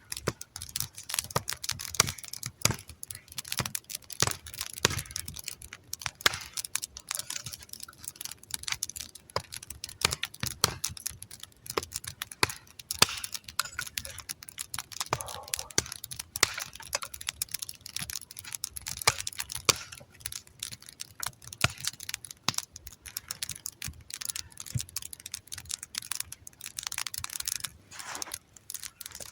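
Campfire crackling: a dense, irregular run of small crackles and clicks with scattered louder snaps.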